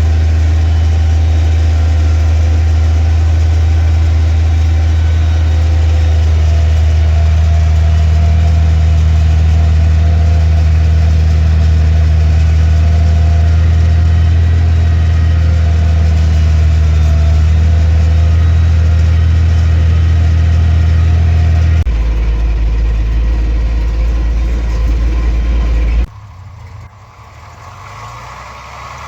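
Skid steer loader's diesel engine running steadily under work, then settling to a lower pitch about three-quarters of the way through; the sound drops off sharply near the end.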